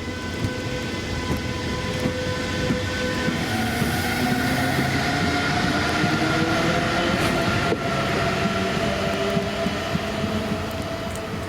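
Electric locomotive-hauled train running and picking up speed, its traction equipment giving several steady whining tones and one slowly rising whine, with a rumble and regular clicks from the wheels.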